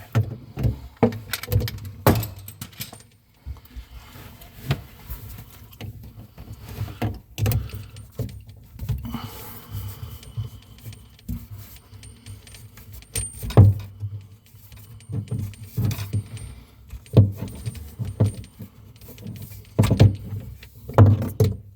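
Irregular metallic clinks, knocks and rattles of plumbing tools and fittings being handled, with occasional dull thuds and short scrapes.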